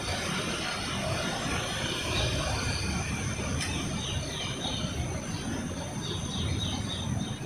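Train running past on the rails, a steady rumble of wheels and cars, with short high chirps recurring after the middle.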